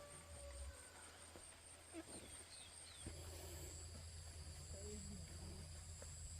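Faint insects trilling: a high, quickly pulsing trill for the first three seconds, then a steadier high buzz, over a low hum.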